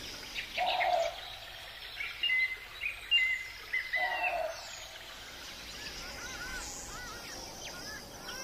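Several birds calling in the wild: two short lower calls, one about a second in and one about four seconds in, quick high chirps between them, and a string of repeated arching chirps from about six seconds on, over a faint steady background hiss.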